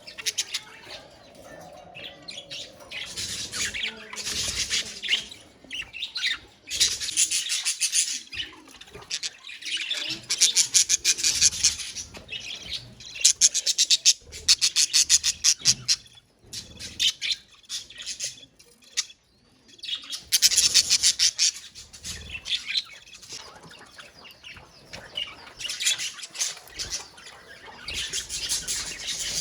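A colony of budgerigars chattering and chirping, many birds calling at once in fast, busy spells of a few seconds with brief lulls between them.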